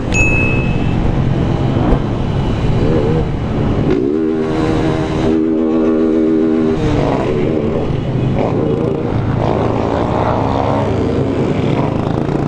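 Many motorcycle engines running and revving together, their pitch rising and falling, with one engine held at a steady pitch for a couple of seconds in the middle.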